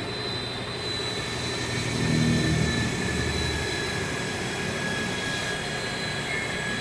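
A steady mechanical drone with a constant high whine.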